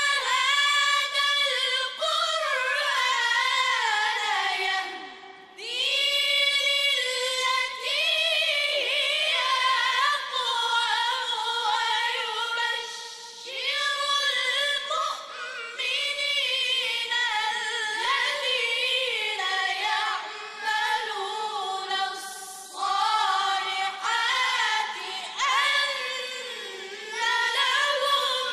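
A choir singing a choral arrangement of Qur'anic verses, the voices moving together in long melodic phrases with short breaks between them.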